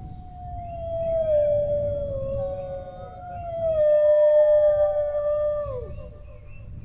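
Dogs howling: one long howl that slowly falls in pitch, overlapped about three seconds in by a second, higher howl, both sliding down and trailing off near the end.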